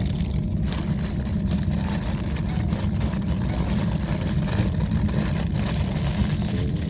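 Passenger train running, a steady low rumble with a hiss of rolling and air noise heard from inside the carriage.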